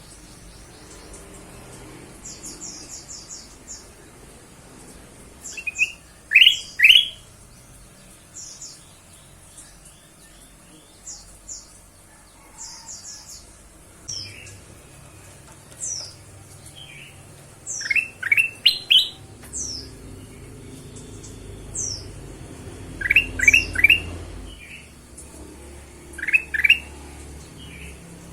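Kutilang emas, a bulbul, calling in short, loud bursts of three or four quick falling chirps, with thinner, higher single notes in between: the lively call used as a lure sound for kept birds.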